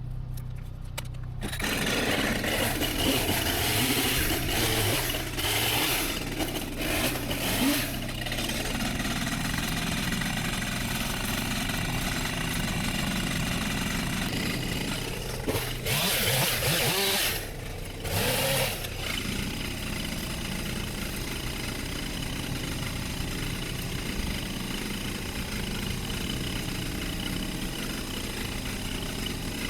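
A machine engine running steadily; the sound grows much louder and rougher about a second and a half in, with louder bursts of working noise past the middle.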